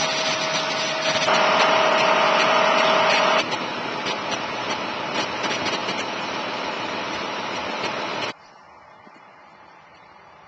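Loud, steady vehicle running noise with a steady whistling tone through its first few seconds. It cuts off suddenly about eight seconds in, leaving a much quieter background.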